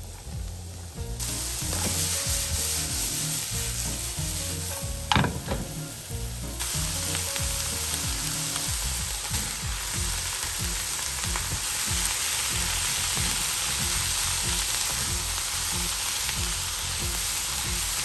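Food sizzling and frying in a pan while being stirred, a steady hiss with one sharp knock about five seconds in.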